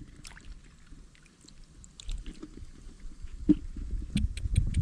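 Irregular water splashing and knocking, quiet at first, then busier, with a run of sharp clicks and splashes from about three seconds in.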